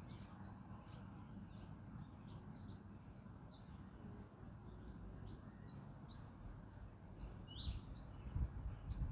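Small songbirds chirping, many short high calls in quick succession, over a steady low rumble of wind. A few louder low thumps come near the end.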